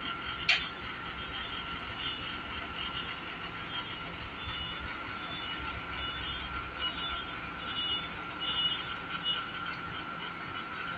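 John Deere tractor running steadily, with a constant high-pitched whine over the engine and one sharp click about half a second in.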